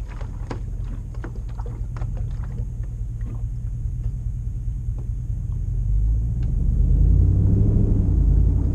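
Toyota 2UZ-FE 4.7-litre V8 with a full exhaust, running with a low rumble; the revs rise and it gets louder about six seconds in, then drop back near the end. Scattered short knocks in the first half.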